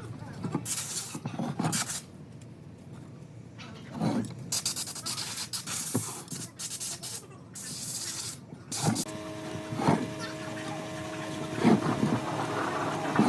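Wood being worked by hand and with tools: rasping, rubbing strokes of noise, then about nine seconds in a power tool's motor starts running with a steady hum, with a few knocks over it.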